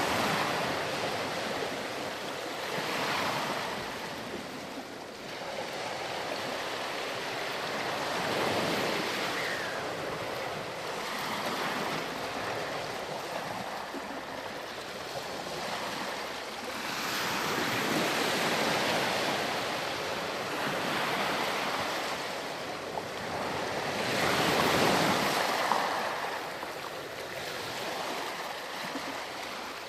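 Ocean surf washing onto a sandy beach, the wash of each wave swelling and fading every several seconds. The loudest waves come about two-thirds of the way through and again near the end.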